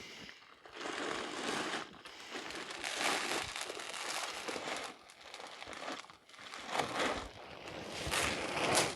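Shelled corn being poured from a plastic feed bag into a deer feeder: kernels rushing out and the bag crinkling, in several surges with short breaks.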